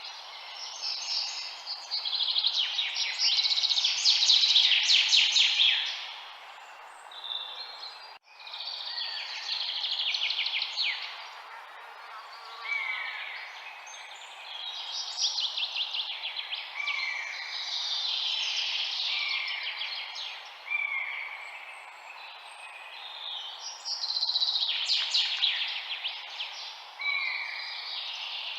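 Several songbirds chirping and trilling together in overlapping waves over a steady background hiss, with a momentary break in the sound about eight seconds in.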